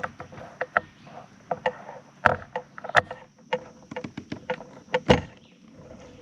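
Irregular clicks and knocks of handling in a fishing kayak while a just-landed smallmouth bass is dealt with, some of them sharp and loud, over a faint steady hum.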